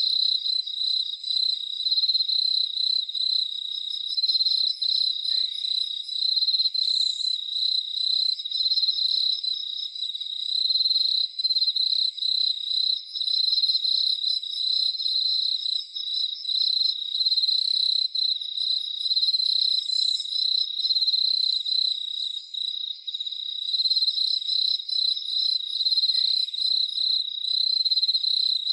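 Crickets chirping in a dense, continuous high-pitched chorus with a fast, even pulse.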